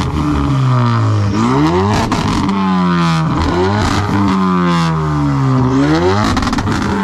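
Car engine revved hard over and over, its pitch climbing and dropping about five times. It is loud.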